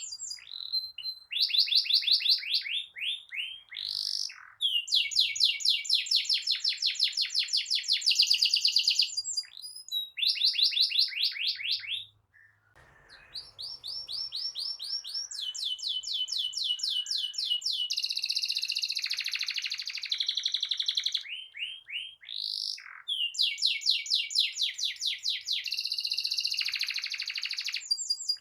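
Domestic canary singing in rolled phrases: fast trills of repeated high notes, each run lasting one to three seconds, with a brief lull about twelve seconds in.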